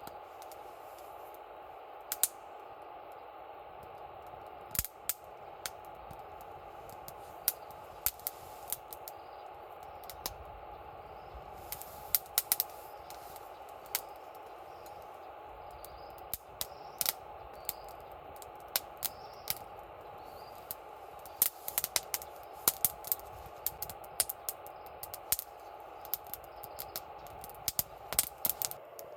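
Campfire wood crackling, with irregular sharp pops, some in quick clusters, over a steady hiss.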